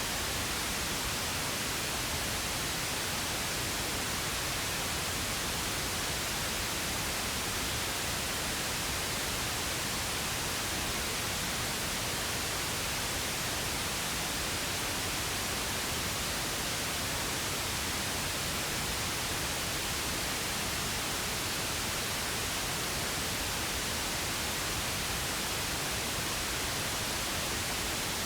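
Pink noise: a steady, even hiss spread across the whole audible range, unchanging throughout.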